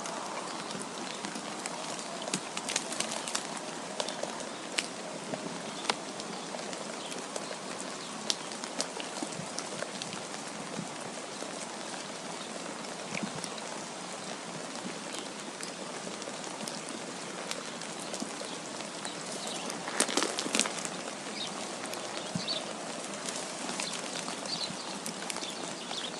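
Steady wind-and-precipitation ambience: an even hiss dotted with many light ticks and patters, like drops or sleet hitting a surface. A brief denser cluster of patters comes about twenty seconds in.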